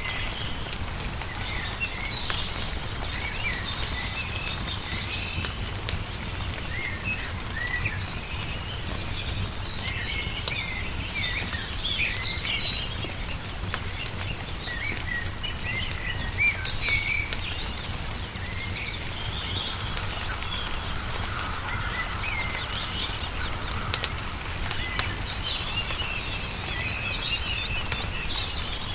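Small songbirds chirping and twittering over the scattered pops and crackles of a wood fire, with a steady low rumble underneath.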